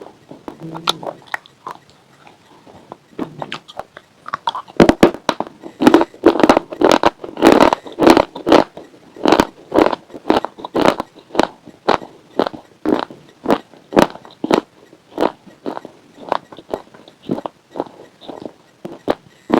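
Close-up crunching and chewing of hard white chips with a pink coating. A few faint clicks come first, then loud crunching bites about five seconds in, settling into steady chewing crunches about two a second.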